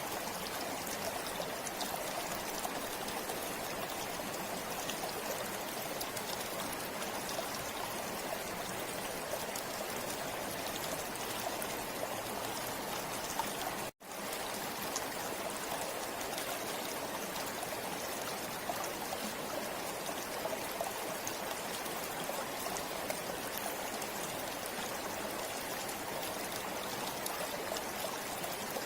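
Steady rush of a flowing river. About halfway through, it cuts out for a split second and then resumes.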